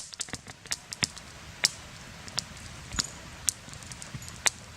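Campfire crackling: irregular sharp pops, about a dozen, over a faint steady hiss.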